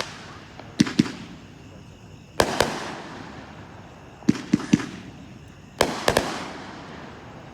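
Multi-shot consumer firework cake (a 28-shot repeater) firing: about eight sharp reports, single or in quick pairs and triples every second or two, each trailing off in a fading crackle.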